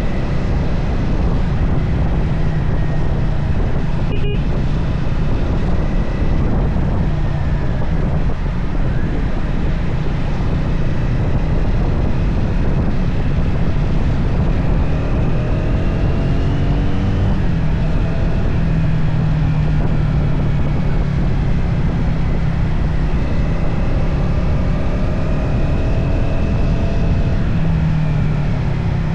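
Triumph Speed 400's single-cylinder engine running on the move, with a deep steady rumble and wind rushing over the microphone. Its pitch rises and falls as the throttle changes.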